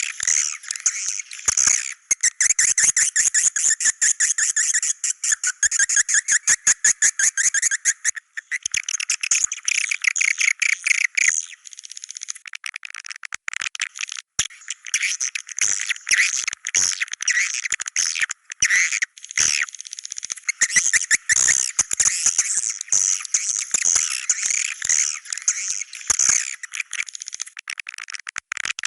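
Swiftlets twittering: a dense, continuous stream of rapid, high-pitched chirping trills, with a few brief breaks.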